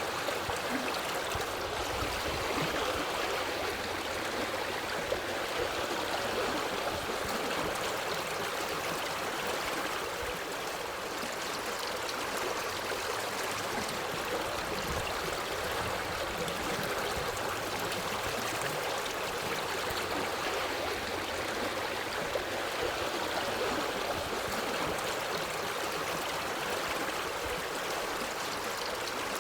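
A forest stream flowing over rocks: an even, continuous rush and babble of water.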